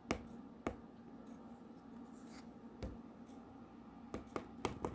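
Faint, scattered light clicks and taps of a diamond-painting drill pen setting resin drills onto the canvas, with a quick run of taps near the end.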